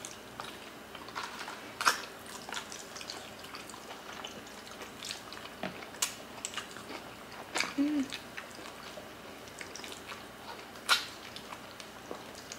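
Close-miked eating by hand: wet chewing and lip smacks as oxtail kare-kare is eaten, heard as scattered short sharp clicks every second or so. A short hummed "mm" comes about eight seconds in.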